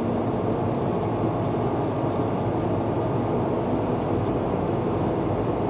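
Steady engine and road noise of a semi truck driving slowly, heard from inside its cab.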